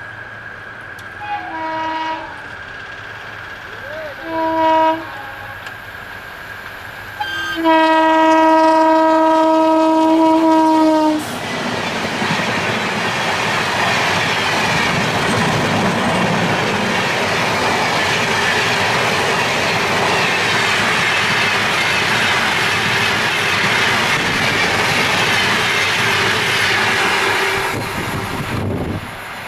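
Indian Railways electric locomotive sounding its horn: three short blasts, then one long blast of about three and a half seconds. Then the train passes close by at speed, a loud rush of wheels and coaches with clickety-clack on the rails, which eases off near the end.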